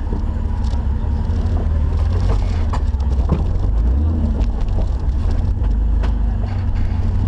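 Off-road Jeep's engine running with a steady low rumble while it crawls along, with scattered clicks and knocks from the vehicle.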